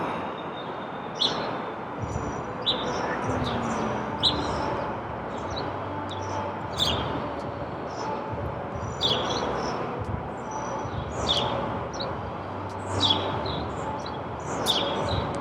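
Small birds chirping, with short high calls every second or two, over steady background noise.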